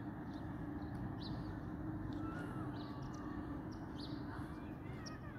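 Outdoor ambience of steady low background noise, with short, high bird chirps repeating about once a second.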